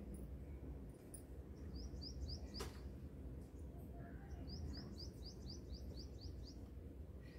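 Faint bird chirping: a run of four quick, rising chirps about two seconds in, then a longer run of about nine near the middle, over a low steady hum. A single sharp click falls between the two runs.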